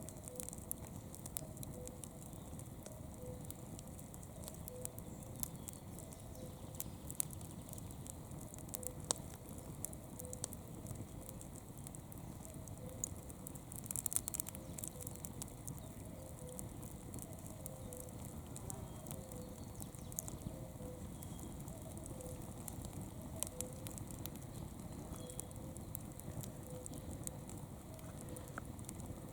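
Campfire burning, its wood crackling and popping in irregular sharp snaps over a low steady rush, with a quick flurry of pops about halfway through.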